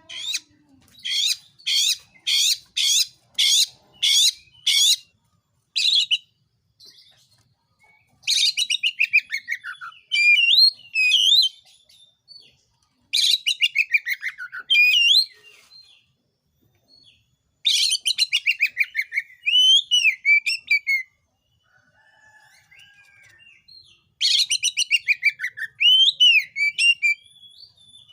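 Oriental magpie-robin (kacer) singing loudly. It starts with a string of about eight short, harsh notes, roughly two a second, then four phrases. Each phrase is a fast, buzzy trill falling in pitch, followed by swooping whistles.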